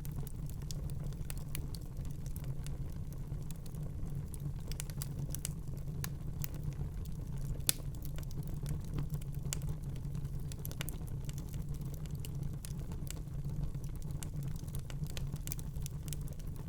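Fireplace fire crackling: irregular sharp snaps and pops over a steady low rumble, with one louder pop about halfway through.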